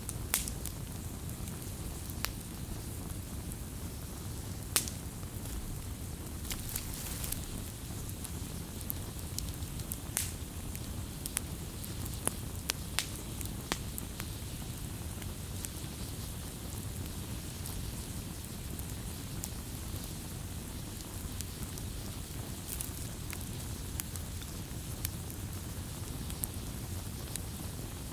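Wood fire burning with a steady low rumble, crackling with irregular sharp pops, a few of them louder.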